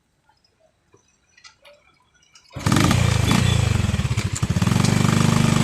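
Faint clicks and taps, then about two and a half seconds in a motorcycle engine starts suddenly and runs loud and steady.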